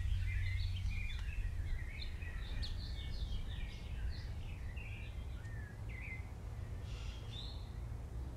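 Several birds chirping and trilling in quick, overlapping short calls, over a steady low rumble of outdoor background noise.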